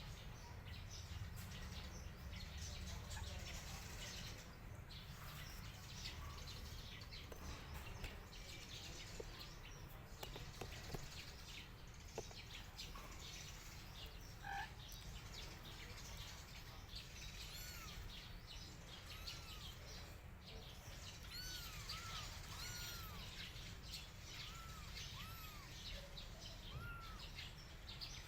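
Faint scattered clicking over a low background hum. From about halfway, short rising-and-falling chirping calls repeat every second or two.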